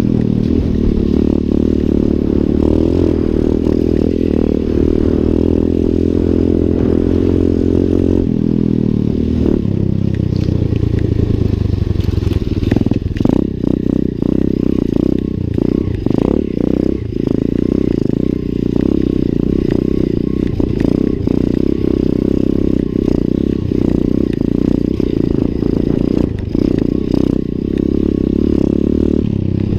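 Lifan 125 cc single-cylinder four-stroke pit bike engine running under way, held at steady revs, then the revs fall about eight seconds in. It carries on at lower, uneven revs with scattered knocks and rattles.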